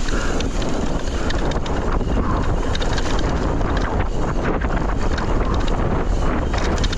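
Wind rushing over the camera microphone while riding a mountain bike down a dirt trail, with the Forbidden Dreadnought's tyres rolling over the dirt and the bike rattling in many quick clicks.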